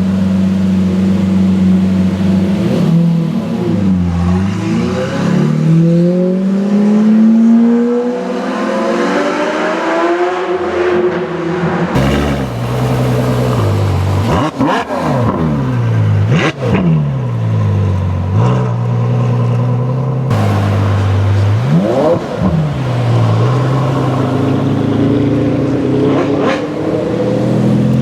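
High-performance car engines idling and revving: one long climb in pitch as a car accelerates, then several sharp throttle blips that rise and fall quickly over a steady idle.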